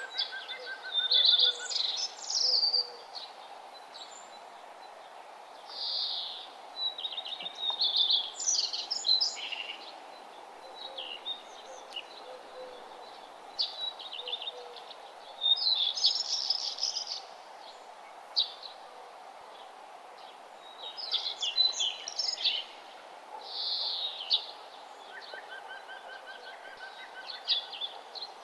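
Birds singing in the open: bright, high-pitched song phrases of one to three seconds, repeated every few seconds over a steady background hiss. Fainter rows of short, lower repeated notes come near the start and the end.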